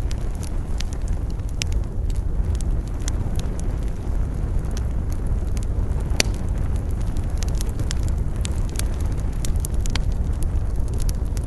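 Campfire crackling, with frequent sharp snaps and pops from the burning wood, over a steady low rumble of wind.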